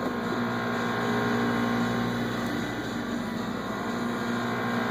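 Steady mechanical hum: a constant low drone with several unchanging tones, like a running motor or fan.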